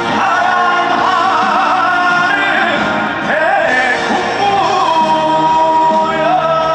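Live trot song with band accompaniment and a male lead vocal singing an ornamented melody; long held notes come in about two-thirds of the way through.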